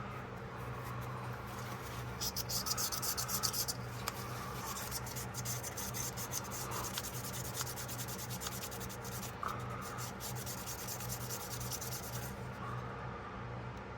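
Quick scrubbing strokes on a pocketknife being cleaned: a short spell, then a longer one lasting about seven seconds, over a low steady hum.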